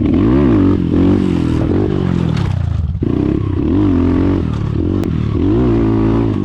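Carbureted 140 cc pit bike engine revving up and falling back in several surges as the rider tries to pull a wheelie. The engine note drops abruptly about three seconds in, then rises again.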